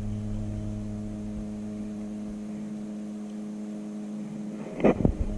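A steady low hum with several overtones; a single sharp crack about five seconds in.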